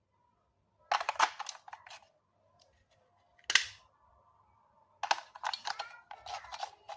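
Sharp clicks and rattles of hard objects being handled: a cluster about a second in, a single loud click past three and a half seconds, and a busier run of clicks near the end.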